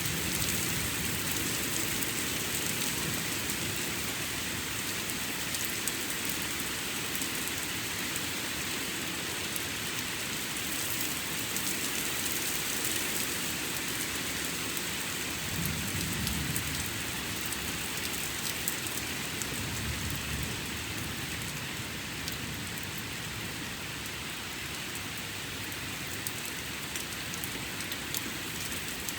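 Steady rain falling during a thunderstorm, with two low rumbles of thunder a little past halfway through.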